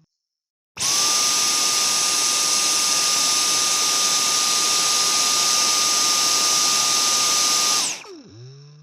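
Vacuum cleaner switched on about a second in, its motor running at a steady high whine with a strong hiss. Near the end it is switched off and the motor winds down, its pitch falling as it fades.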